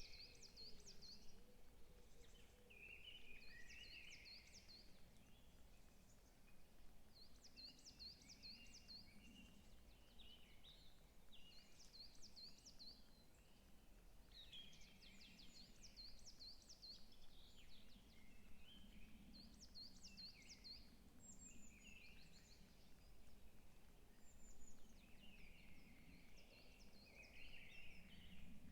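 Faint forest birdsong: one bird repeats a short, quick, high phrase every three to four seconds, with softer chirps from other birds in between.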